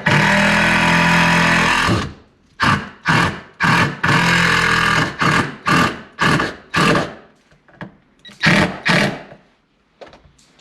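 Handheld power drill running for about two seconds and winding down, then driven in a quick series of short trigger bursts, about ten of them, as screws go in for the shelf supports.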